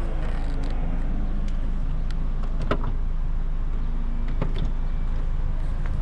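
Lexus RX 200t being driven in town: steady low engine and road noise from its 2.0-litre turbocharged four-cylinder (8AR-FTS), with two sharp clicks or knocks a little under three and about four and a half seconds in.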